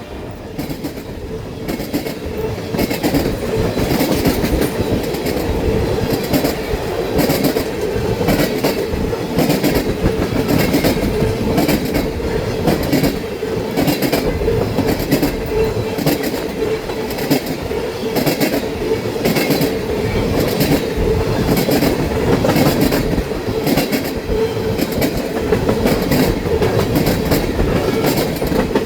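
Loaded ethanol tank-car freight train passing close by, its wheels clicking over rail joints in a steady rhythm over a continuous rolling rumble, with a faint steady wheel whine.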